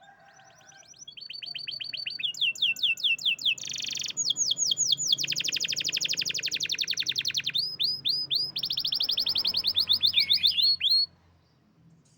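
Domestic canary singing one long song made of rapid trilled runs, each run a quick repeat of one syllable, switching pitch several times before cutting off abruptly near the end.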